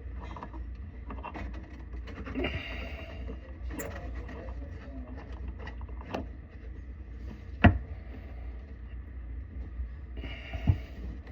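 Scattered knocks and clatter of tools and parts being handled during a faucet installation, two sharp knocks standing out, over a steady low hum, with two short hissing rustles.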